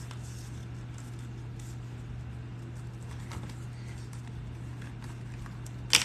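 Steady low room hum with a few faint light taps and clicks from handling the leather and the rivet hardware.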